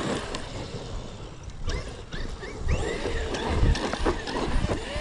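Large electric RC monster truck driving on a dirt track. Its motor whines up and down in short bursts as it accelerates, and there are rumbling knocks from the truck over the rough ground.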